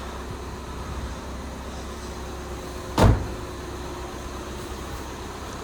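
A single heavy thump about three seconds in, over a steady low hum.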